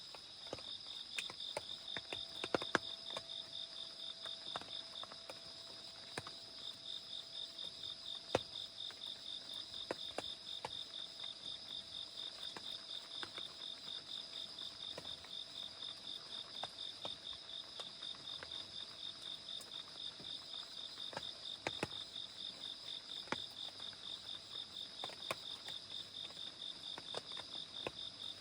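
Crickets and other grass insects chirping: one steady high trill, and one rapidly pulsing chirp that drops out briefly about five seconds in. Scattered sharp taps, like raindrops, come through it.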